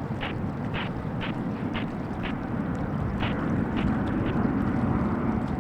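Jet engines of a Boeing 777-300ER (GE90-115B) at takeoff power, a steady rumble that grows louder toward the end, with wind on the microphone. A short call repeats about twice a second over the first half.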